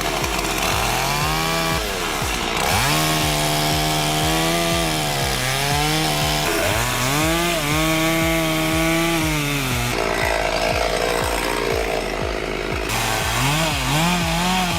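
Chainsaw revved up and held at full throttle, dropping back and revving again several times, with a few quicker revs near the end.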